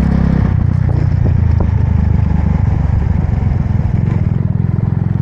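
Motorbike engine running steadily while riding, heard from on the bike, its note changing slightly about half a second in, with road and wind noise.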